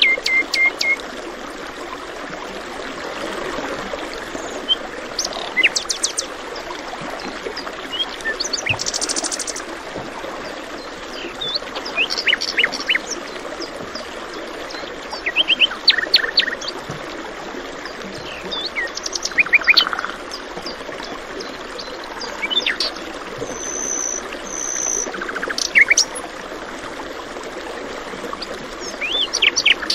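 Several songbirds calling and singing in short bursts of quick chirps and trills over a steady rush of flowing water.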